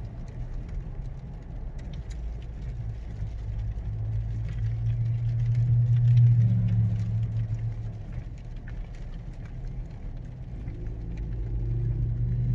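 Car engine and road noise heard from inside the cabin: a steady low hum that swells to its loudest about halfway through, eases off, then builds again near the end.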